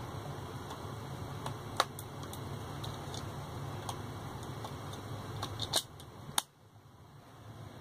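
Small clicks and taps from fingers pressing the buttons on a Pioneer AVH-P6380BT car multimedia head unit. The sharpest click comes about two seconds in and two more near the end, over a steady low hum that cuts out suddenly after the last click.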